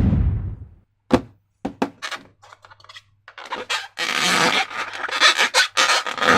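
Rubber balloons and slime being handled: a short rush of sound at the start, a few sharp clicks, then from about three and a half seconds in a dense, crackly stretch of rubbing and handling noise.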